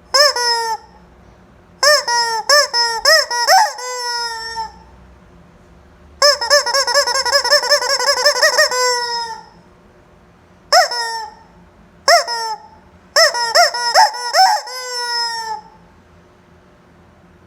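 Noise-making chicken squawking in bursts of short, high, rising-and-falling calls. There are groups of separate squawks near the start, around 2 to 5 s and 11 to 16 s, and a fast run of about ten calls a second from about 6 to 9 s.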